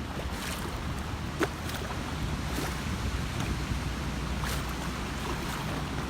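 Wind buffeting the microphone over a steady low rumble, with a few sharp ticks.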